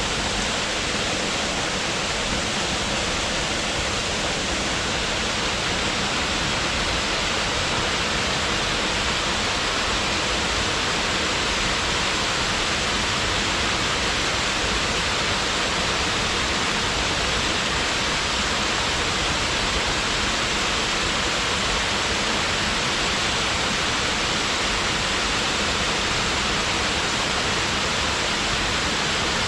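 Waterfall: a steady, even rush of falling water with no break.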